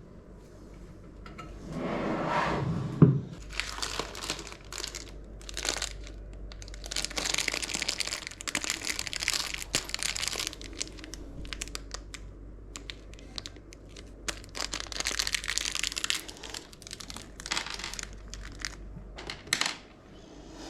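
Plastic packaging crinkling in bursts as it is handled and unwrapped, with a sharp knock about three seconds in.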